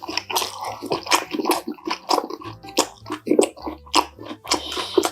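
Close-miked eating sounds: wet chewing with irregular smacks and clicks of the mouth.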